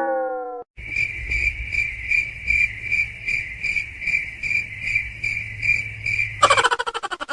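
Cricket chirping: a steady high trill that pulses about two to three times a second. It is cut into near the end by a sudden loud rattling burst that dies away in rapid pulses. A short falling pitched tone is heard in the first half-second.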